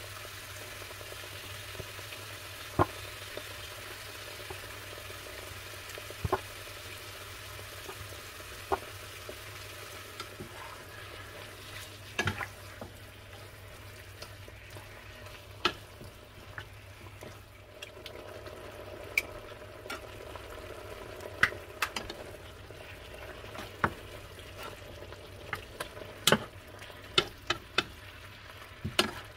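Chicken pieces and sliced onion sizzling in a nonstick frying pan, turned over with a wooden spatula that knocks against the pan now and then. The knocks come more often in the second half.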